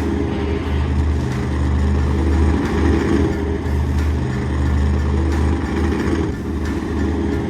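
Deep, steady truck-engine rumble, dipping briefly every second or two.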